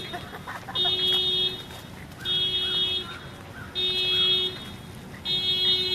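Electronic alarm beeping steadily: one beep about every one and a half seconds, each lasting under a second.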